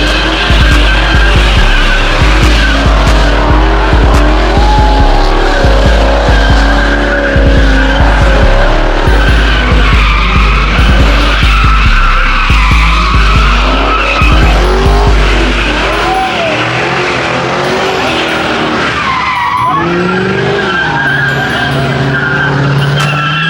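Car tyres squealing and skidding under hard driving, with engine noise, over a hip-hop beat whose heavy bass stops about two-thirds of the way through.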